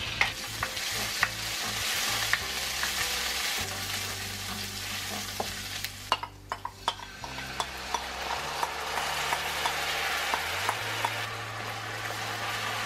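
Minced garlic sizzling in hot oil in a wok, stirred with a wooden spoon that clicks and scrapes against the pan. The sizzle drops briefly about halfway through, then picks up again.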